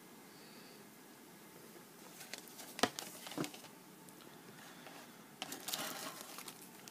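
Model kit contents being handled: light rustling of bagged parts and paper with a few sharp clicks, the loudest about three seconds in, and a longer rustle near the end.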